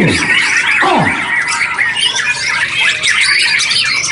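Several white-rumped shamas singing at once, a dense overlapping chorus of quick whistles and chirps. Two short low sweeps fall in pitch near the start.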